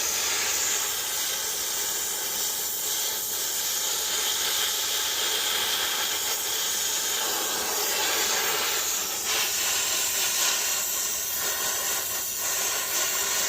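Steady, strong hiss of gas flowing under pressure during work on an air-conditioner compressor, wavering only slightly in level.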